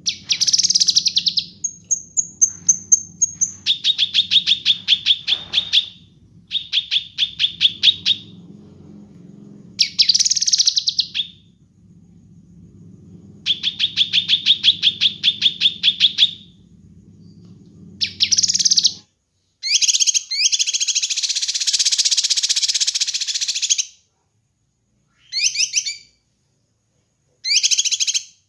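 Kinoi songbird singing in repeated bursts of fast, evenly spaced chirps, each run lasting one to three seconds, with a brief high whistle near the start. About twenty seconds in comes a longer, denser, harsher chatter, followed by short clipped phrases. A low background hum under the first part cuts off suddenly.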